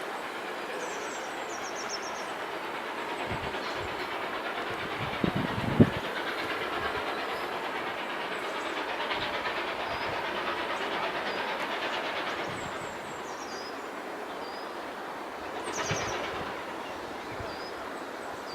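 Steam-hauled train running past on the line, a steady rattle and clatter of wheels over the rails, with a few sharp knocks about five to six seconds in.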